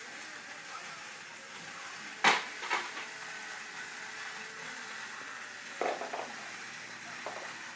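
A few sharp clattering knocks of hard objects over a steady hiss: one loud knock a couple of seconds in with a smaller one just after, then a short cluster of knocks later on.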